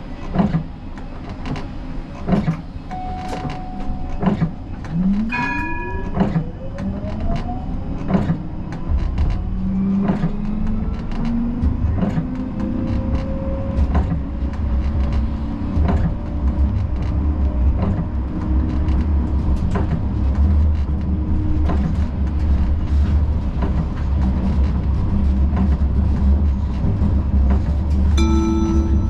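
Siemens Combino tram pulling away: the electric traction drive whines, rising in pitch as it gathers speed, and then a steady low rumble of the wheels on the rails takes over. A short beep comes about five seconds in, and a chime sounds near the end.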